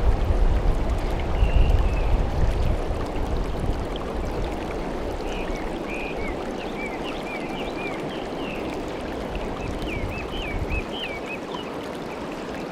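Mountain stream water rushing steadily over rocks, with low rumbling in the first few seconds and a run of quick high chirps from about five seconds in.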